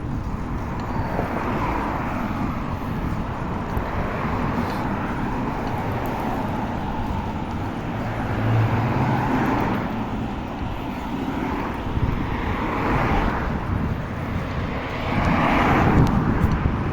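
Road traffic: a steady noise with several cars going by one after another, each one rising and fading, the last and loudest near the end.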